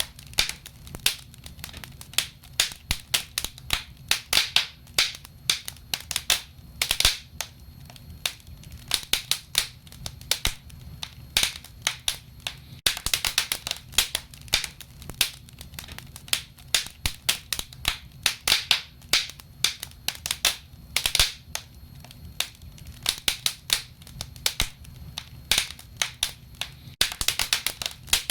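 Burning wood crackling: a constant run of irregular sharp snaps and pops, some louder than others, over a faint low hum.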